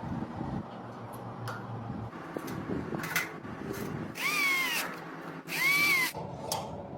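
A small electric motor whirs in two short bursts about a second apart, each whine rising and then falling in pitch, after some light clicking and handling noise.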